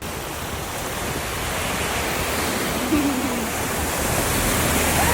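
A loud, steady rushing noise that starts suddenly and grows slowly louder, with a brief faint voice about three seconds in.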